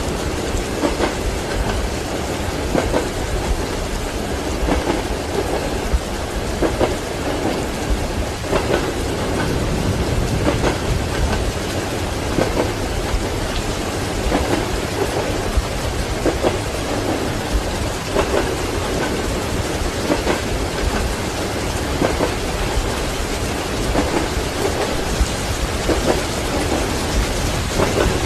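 Steady heavy rain with low rolling thunder, mixed with the regular clack of train wheels over rail joints, a soft knock about every two seconds.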